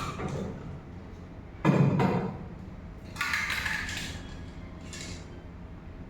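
A knock about two seconds in, then two short hissing bursts of an aerosol spray can: magnetic particle medium being sprayed for a magnetic particle test, over a steady low hum.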